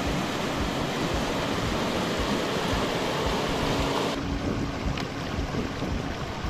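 Steady rush of flowing river water, an even wash of noise, its highest hiss easing about four seconds in.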